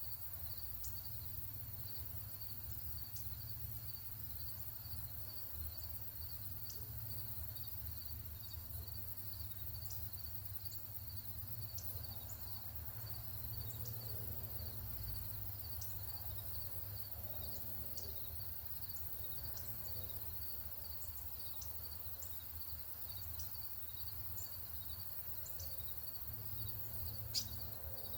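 Steady, rhythmic insect chirping, like a cricket, at about three pulses a second, with scattered short bird chip notes over a low background rumble. A single sharp click sounds near the end.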